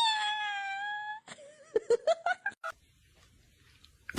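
A cat meowing: one long, drawn-out high meow lasting about a second, then a quick string of short calls, then nothing.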